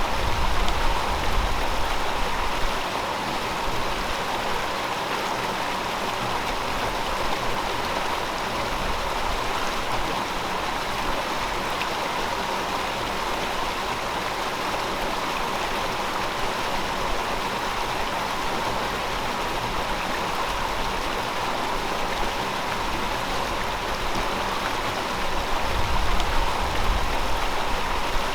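A gentle river flowing: a steady rush of water, with a deeper rumble swelling briefly at the start and again near the end.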